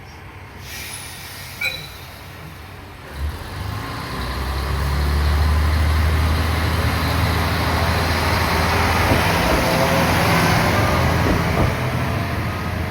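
Nagara River Railway diesel railcar's engine running, starting up about three seconds in, growing louder and then holding a steady deep drone. A brief sharp sound comes before it.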